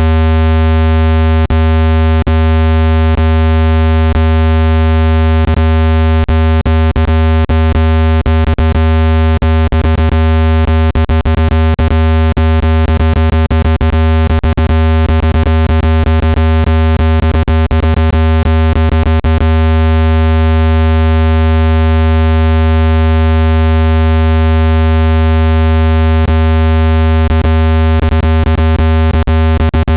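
Loud, steady, low synthetic hum from a speaker water-ejection sound wave, one unchanging pitch with a stack of overtones, played to shake trapped water out of a phone speaker. Irregular sharp clicks run through it, thickest about a third of the way in.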